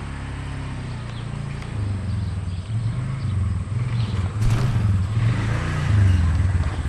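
Low engine rumble of a motor vehicle, swelling about two seconds in and easing off near the end.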